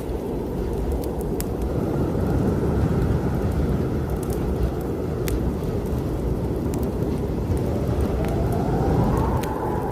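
Strong winter storm wind blowing with a heavy low rumble, a whistling howl rising near the end, over a fireplace fire with sharp crackles and pops now and then.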